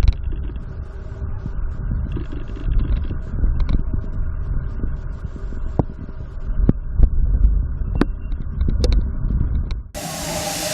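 Low, uneven rumble of a running engine with scattered sharp knocks and clicks. Just before the end it cuts abruptly to a loud, steady hiss.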